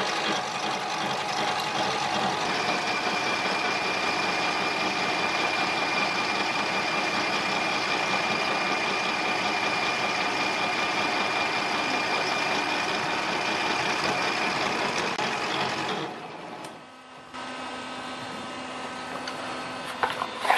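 Harbor Freight mini lathe running steadily, with a high whine over its motor noise. About sixteen seconds in the sound drops sharply to a quieter steady hum.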